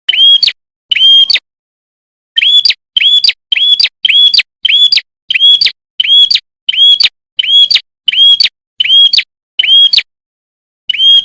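Prenjak kepala merah, a small Indonesian songbird, repeating one short, sharp whistled note that sweeps up and holds, about one to two notes a second, with total silence between notes and two brief pauses in the series.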